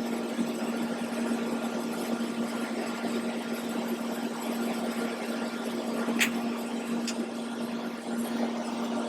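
TIG welding in progress: a steady electrical hum with an even hiss from the welder and arc, with two sharp clicks about six and seven seconds in.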